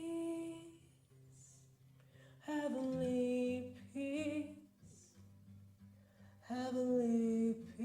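A woman singing long, drawn-out notes with vibrato in three slow phrases, with no clear words, over soft acoustic guitar chords.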